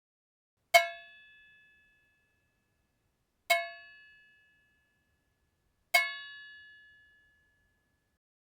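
A metal spatula struck three times, about two and a half seconds apart, each hit a bright clang that rings with several tones and dies away over about a second, heard at its natural pitch.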